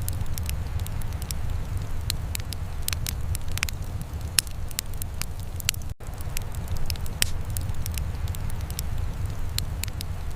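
Wood fire in a fireplace crackling and popping in irregular sharp snaps over a steady low rumble. There is a momentary dropout about six seconds in.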